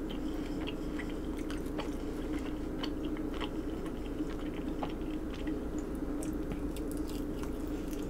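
Close-up chewing of a chicken wing: small wet mouth clicks and smacks scattered throughout, with a fresh bite near the end, over a steady low hum.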